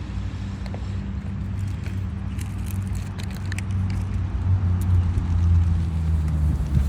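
Steady low hum of an idling car engine, swelling slightly partway through, with a scatter of faint short high ticks.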